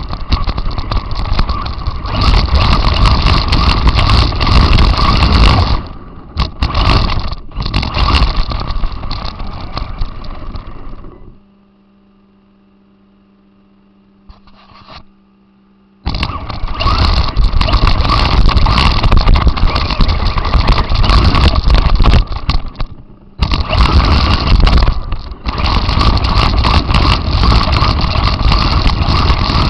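RC car driving over rough ground, heard from its onboard camera: a loud noisy mix of motor, gears and tyres that stops for about five seconds near the middle, leaving only a faint steady hum, then starts again.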